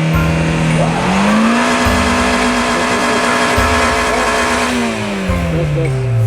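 A car engine revs up about a second in, holds high for a few seconds, then drops back, over a hiss of wheels spinning as the car tries to pull free of deep snow.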